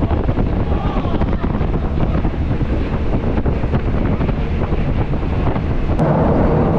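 Running noise of a moving train heard from on board: wheels and carriage rattling, with wind buffeting the microphone.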